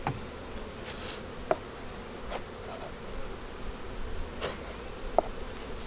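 Honeybees buzzing around an open hive, a steady hum, with two sharp clicks, about a second and a half in and near the end.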